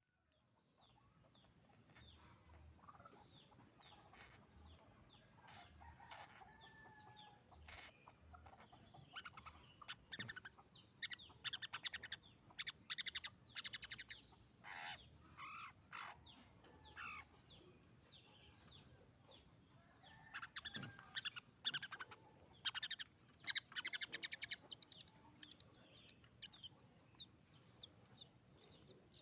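Young long-tailed shrike (cendet) practising its song: a string of scratchy, harsh notes mixed with short whistled phrases. The calls are sparse at first and come thick in two busy spells midway and later. The song is still unsettled and somewhat rough, typical of a juvenile bird still learning to sing.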